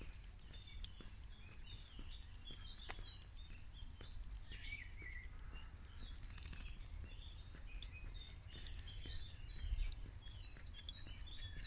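Small songbirds chirping and singing in the trees, many short calls scattered throughout, over a steady low rumble.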